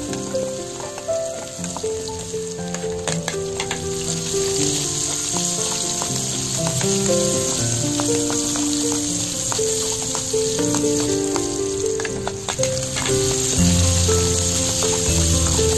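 Garlic, ginger and sliced vegetables sizzling in hot oil in a metal wok, with light clicks of a metal spoon against the pan as they are stirred. Background music with a simple melody plays over it, and a bass line comes in near the end.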